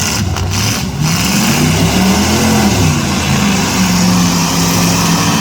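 V8 demolition derby cars' engines running and revving, the pitch rising and falling, with a few short knocks in the first second.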